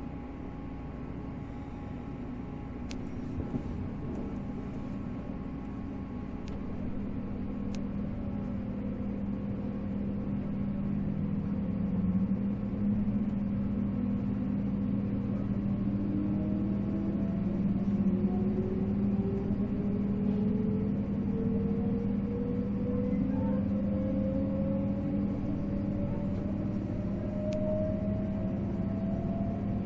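485-series electric train heard from on board, pulling away from a station stop. A steady low hum at first; then, from about ten seconds in, the whine of its MT54 traction motors rises steadily in pitch and grows louder as the train accelerates.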